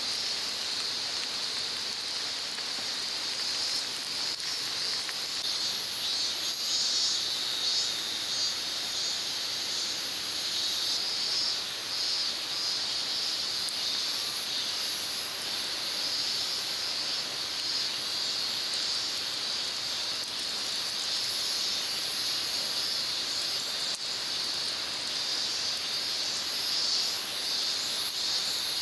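Insects chirring steadily in a high-pitched chorus, with a faint flicker in intensity.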